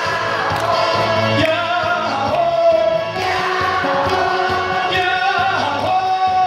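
Many voices singing a Korean pop song in unison over a backing track with a steady beat, holding long notes.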